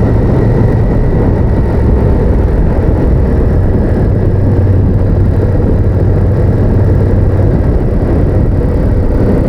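Honda VTR1000F's 90-degree V-twin engine running steadily at a constant cruise, heard from the motorcycle as it is ridden.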